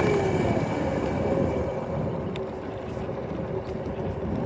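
Motorcycle engine running on the move; its note drops at the start as it eases off, then holds lower over a steady rumble.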